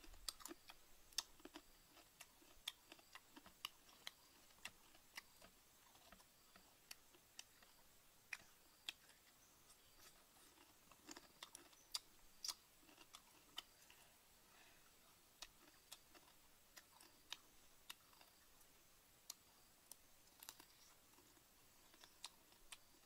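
Faint, irregular crisp clicks and crackles of a person chewing crunchy cooked insects, a few sharper cracks standing out.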